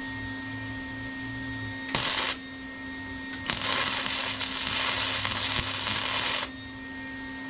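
Flux-core MIG welding with a Lincoln Pro MIG 140: a short tack lasting about half a second, then a bead of about three seconds. The arc's hiss starts and stops abruptly each time, over a steady electrical hum.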